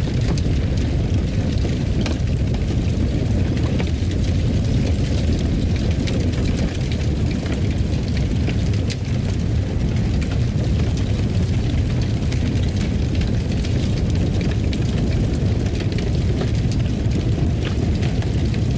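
Fire burning in a fireplace: a steady low rumble with faint scattered crackles.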